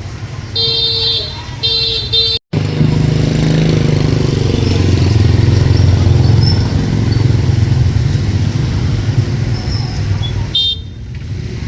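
A vehicle horn toots twice. After a sudden cut, a motor vehicle's engine runs loud and close, a steady low rumble, with a brief higher tone near the end.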